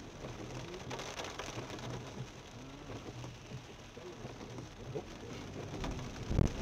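Heavy rain falling on a car, heard from inside the cabin as a steady wash of patter on the roof and windscreen. A low rumble comes in near the end.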